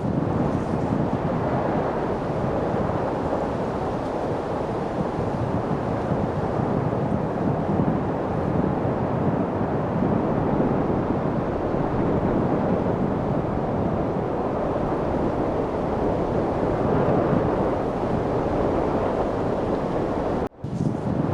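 Steady light wind noise, a soft even rush that swells gently, broken by a brief cut in the sound near the end.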